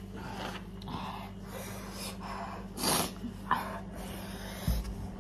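A person sniffing and breathing out sharply in a series of short noisy puffs while eating very spicy ramen, the loudest about three seconds in. There is a sharp click a little later and a low thump near the end, over a steady electrical hum.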